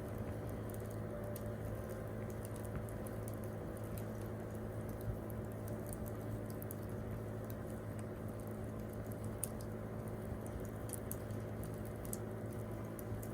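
Wood campfire crackling, with irregular small snaps and pops over a steady low rumble.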